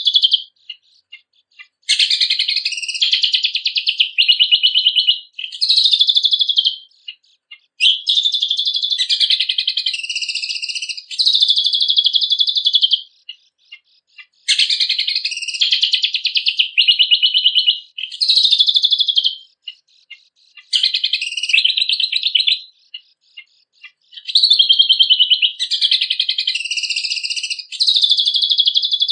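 Kecial kombok (cucak kombok) songbird in full song: rapid, high-pitched trilled phrases of about two to three seconds each, repeated after short pauses that hold a few single chirps.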